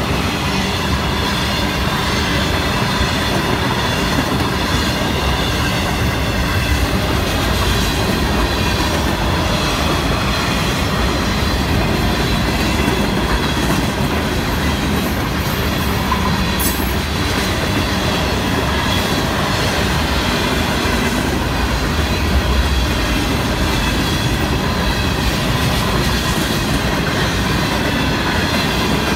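Freight cars of a Florida East Coast Railway train rolling steadily past, a continuous rumble and clatter of steel wheels on the rails, with thin high tones held above it.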